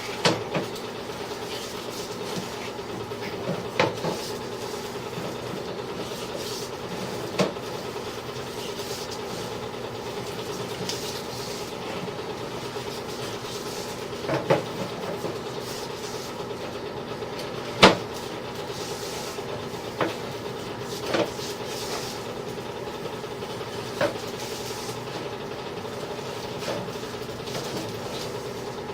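Sewer inspection camera push cable knocking and clicking against the drain pipe every few seconds, one sharper knock standing out. A steady mechanical hum runs under it.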